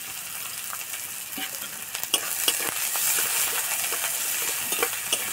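Chopped garlic, ginger, onion and green chilli sizzling in hot mustard oil in a metal kadai. A spatula stirs and scrapes the pan from about two seconds in, with short clicks, and the sizzle grows louder.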